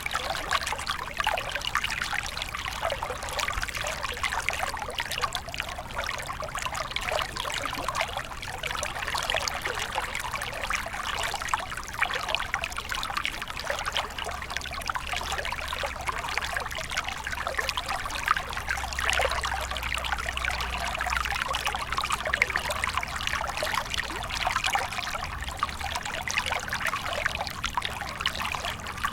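Small stream flowing, water trickling and splashing steadily over stones, a constant dense babble of little splashes.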